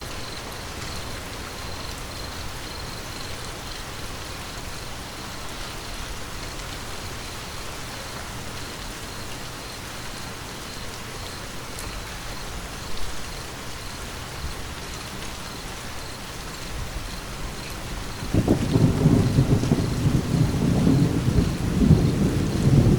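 Steady rain falling, with a deep rumble of thunder that starts suddenly near the end and grows louder.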